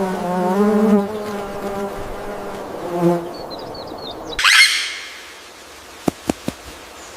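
A flying insect buzzing close by, its hum wavering in pitch, fades out about three seconds in. A few faint high bird chirps follow, then a loud, quick bird call sweeping down in pitch. Three sharp clicks come in quick succession near the end.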